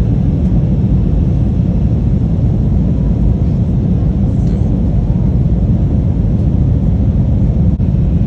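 Steady, loud low rumble of a moving vehicle, heard from inside.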